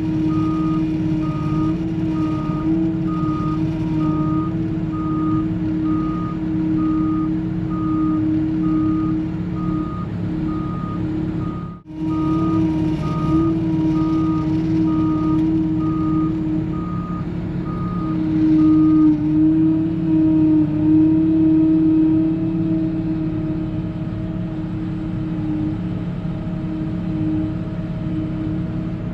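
A vehicle's engine running steadily while it backs up, its reversing alarm beeping about once a second. The beeping stops about two-thirds of the way through and the engine keeps running.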